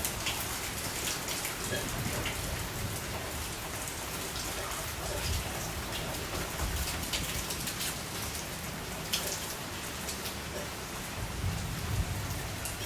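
Steady rain falling, with many sharp drop strikes on a hard surface and a few low rumbles now and then.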